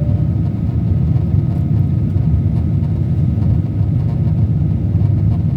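Steady low rumble inside the cabin of a Boeing 777 airliner rolling on the ground after landing, with a faint steady high tone above it.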